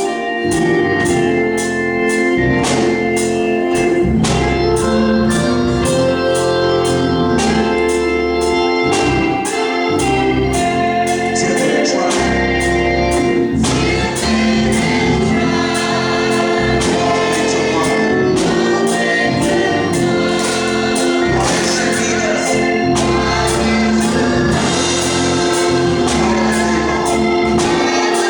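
Gospel music: organ held chords with a steady beat, a choir singing over them, the voices fuller from about halfway through.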